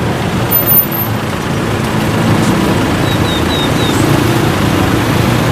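A motor vehicle's engine running close by, a steady low rumble that grows slightly louder.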